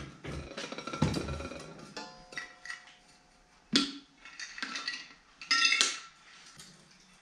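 Steel parts clanking and knocking together, several sharp hits with a metallic ring after some of them. The loudest hits come just before four seconds in and a cluster around five and a half to six seconds.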